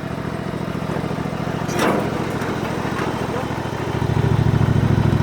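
Small engine of a John Deere riding tractor running with an even pulse, growing louder about four seconds in. A brief sharp sound about two seconds in.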